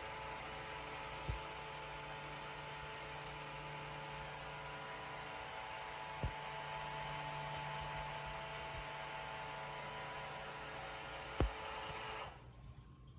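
A steady machine hum with several fixed tones and three short knocks about five seconds apart; the hum cuts off suddenly near the end.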